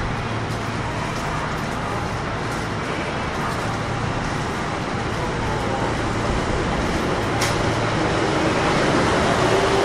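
Running sound inside a Kintetsu 1021-series electric train car with a Hitachi GTO-VVVF inverter: a steady rail rumble over a constant low hum. It grows louder over the last few seconds.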